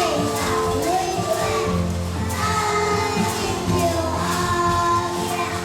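Children singing a song with instrumental accompaniment, the voices holding long, wavering notes.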